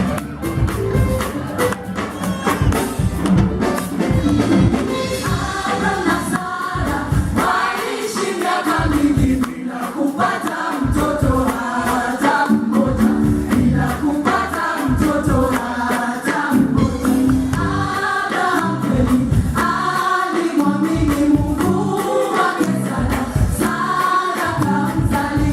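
Contemporary gospel music: several voices singing together in harmony over a band with drums and bass, the singing coming in strongly about five seconds in.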